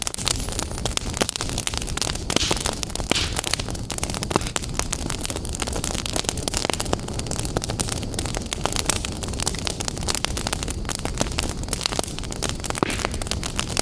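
Wood fire burning in a fireplace, crackling steadily with many quick small pops over a constant rushing hiss.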